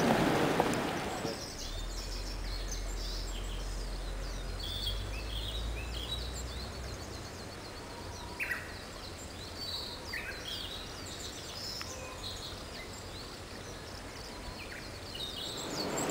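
Small wild birds chirping and calling, many short high notes scattered throughout over a faint steady hiss. A louder noise fades out during the first second and swells again near the end.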